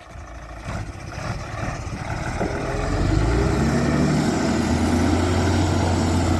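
Tipper truck's engine building up revs over the first three seconds or so, then running steadily at raised revs.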